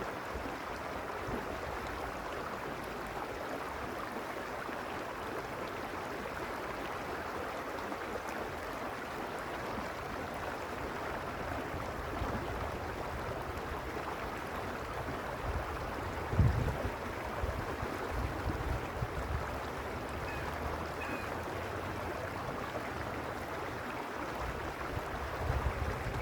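A creek flowing steadily, an even rushing of water. From about two-thirds of the way in, uneven low gusts of wind buffet the microphone.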